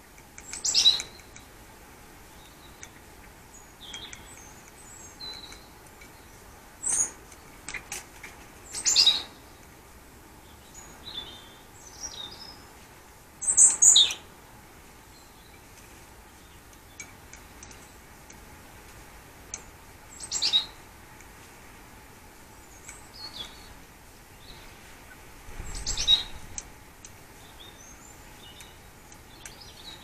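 Garden birds chirping: short, high calls scattered every few seconds, the loudest a double call near the middle, over a faint steady background.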